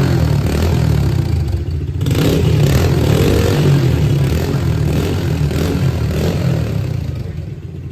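Small 110cc four-stroke single-cylinder dirt bike engine running and revving, dropping off briefly about two seconds in and fading near the end.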